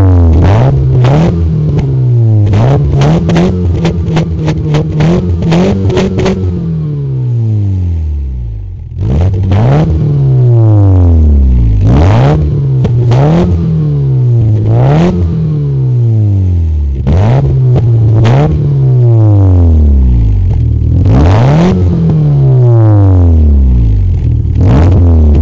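Ford Fiesta XR2i engine revved up and let fall again and again through an aftermarket sports exhaust with an added resonator. The revs rise and drop every second or two, with sharp cracks in the exhaust over the first several seconds and a brief lull about eight seconds in.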